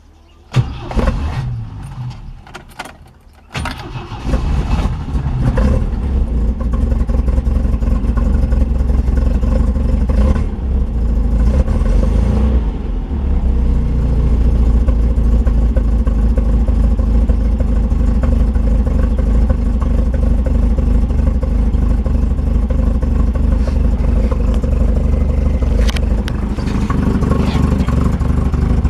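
1970 MGB GT's 1.8-litre four-cylinder B-series engine started from cold without choke: the starter cranks for about three seconds before the engine catches. It runs a little unevenly with some revving at first, then settles into steady running.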